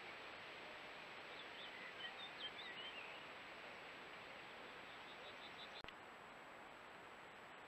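Faint rural field ambience with a steady hiss and a thin high steady tone, with distant birds calling: scattered chirps in the first few seconds and a short run of quick repeated notes about five seconds in. The sound drops out briefly near six seconds.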